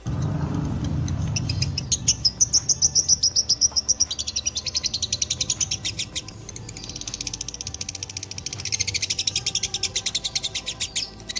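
Lovebird 'ngekek': a long, fast chattering trill of sharp high chirps at about nine a second, in two long runs with a short break about six seconds in. A low rumble sits under the first two seconds.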